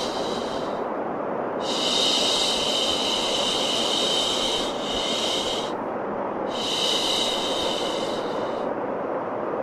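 Baby-sleep white noise: a steady rushing hiss, with a higher, sharper hiss layered over it that comes and goes in spells of two to four seconds, cutting out about a second in, near six seconds and near the end.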